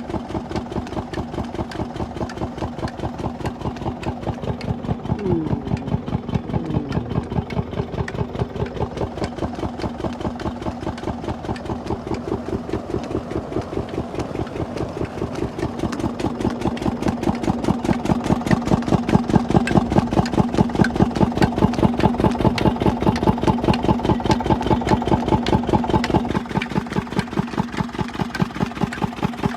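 Engine running a water pump, ticking over steadily with an even beat of about five strokes a second. About 26 seconds in, part of the sound drops away a little, but the engine keeps its beat.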